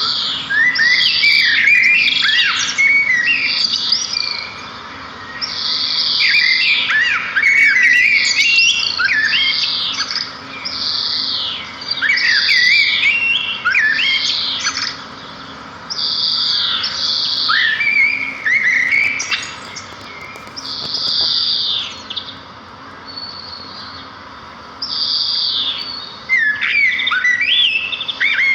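A small songbird singing the same kind of phrase over and over: each one opens on a high note and breaks into quick, varied chirps and warbles. The phrases last two to four seconds, with short pauses between them.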